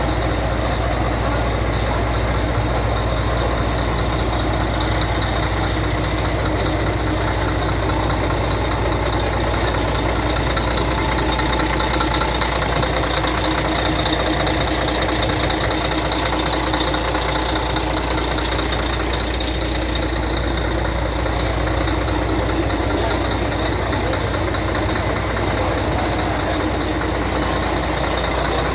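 Scania 113 truck's six-cylinder diesel engine idling steadily, with no revving.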